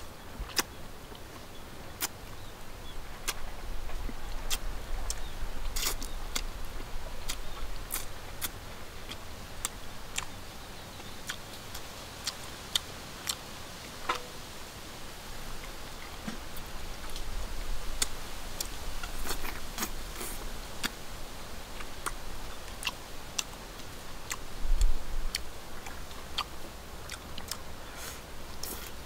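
Close-miked eating sounds: a person chewing cooked duck, with many sharp, irregular mouth clicks and smacks and a low rumble of chewing that swells and fades.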